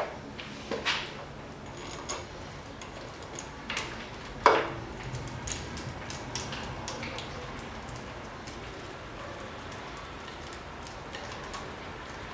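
Metal hand tools and parts clicking and clinking as they are handled and set down, with one louder ringing metallic clank about four and a half seconds in.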